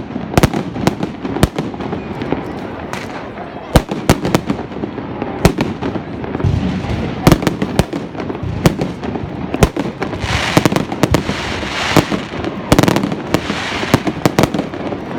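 Fireworks going off: an irregular series of sharp bangs, with a dense stretch of crackling about two-thirds of the way through.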